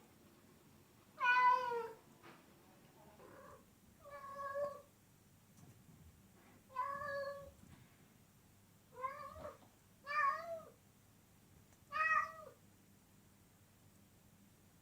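Domestic cat meowing repeatedly, about seven short meows roughly every two seconds. The calls are mostly arched, rising then falling in pitch, and the first and loudest one drops at its end.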